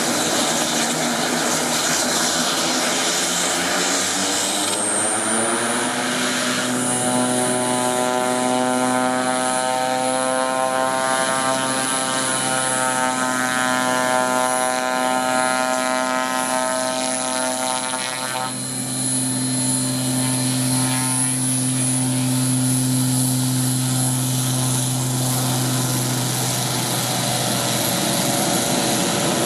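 Air Tractor 802 agricultural plane's turboprop engine running, with a high turbine whine that rises in pitch a few seconds in and then holds steady over a steady propeller drone.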